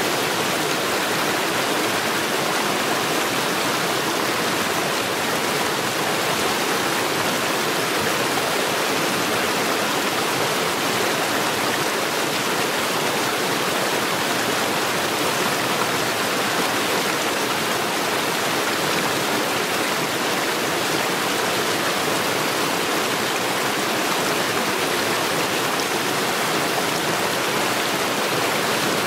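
Mountain stream rushing over stones, a steady, even rush of water.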